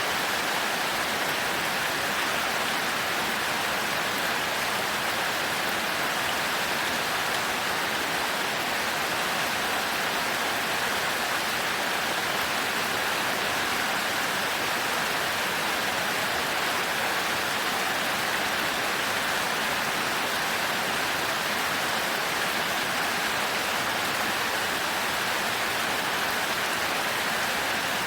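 Heavy rain falling in a steady, even hiss that never lets up.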